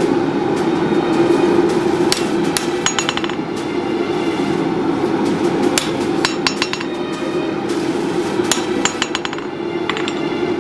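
Hand hammer striking a red-hot steel blade on an anvil while its bevels are forged, in runs of quick ringing blows with short pauses between them. A steady drone runs underneath.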